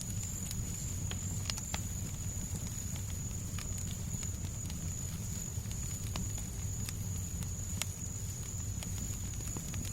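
Fireplace fire crackling, with scattered sharp pops and snaps, over a steady low rumbling noise bed and a thin, steady high tone.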